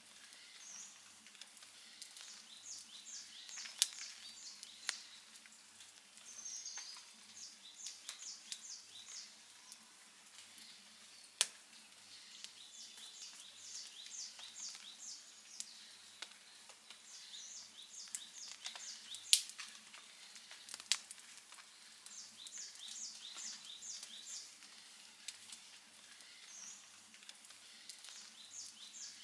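Outdoor wood campfire crackling softly, with scattered sharp pops, the loudest about 19 seconds in. Short runs of high chirps repeat every few seconds behind it.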